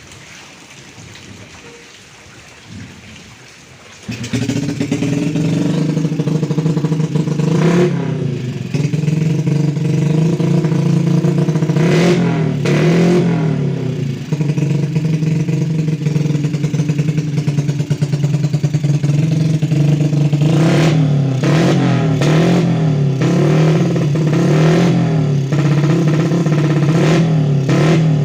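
Yamaha Krypton two-stroke motorcycle engine starting about four seconds in, on its first run after a tune-up with a Mio CDI fitted. It then runs with the throttle blipped again and again in quick revs, most often near the end.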